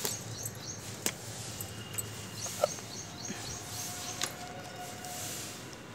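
Small birds chirping in quick repeated series in the background, with a few sharp clicks from pothos leaves and stems being handled.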